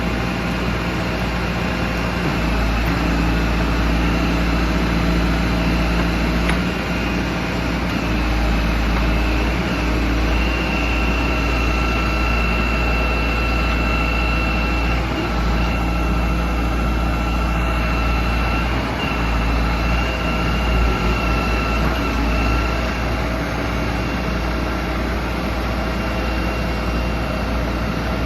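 Diesel engine of an HZM backhoe loader (Cummins) running steadily under work, with a constant low rumble; a high steady whine joins about ten seconds in and holds.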